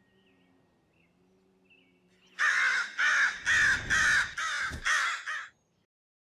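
A bird giving about seven harsh calls in quick succession, starting a little over two seconds in and lasting about three seconds.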